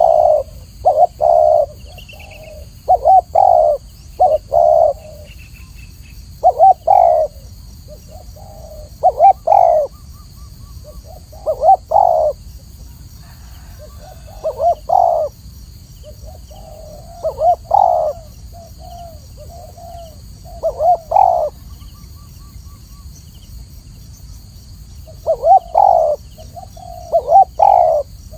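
Spotted dove cooing: repeated phrases of a few short, throaty coos each, separated by brief pauses, with a longer pause about three-quarters of the way through. A steady low hum runs underneath.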